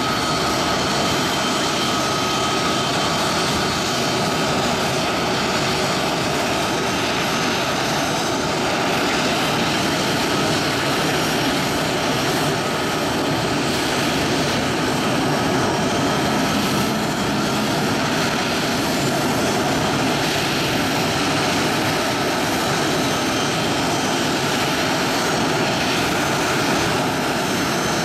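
Aircraft jet engines running steadily, a constant loud noise with a faint high whine.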